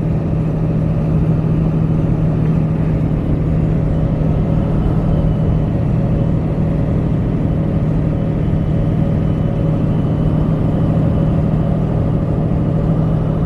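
Steady road noise inside a moving vehicle cruising along a highway: engine and tyre hum with a constant low drone and no changes in speed.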